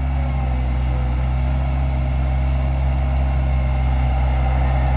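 Bobcat 853H skid steer's diesel engine running steadily.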